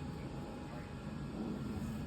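Steady low background rumble of room noise, with faint muffled voices.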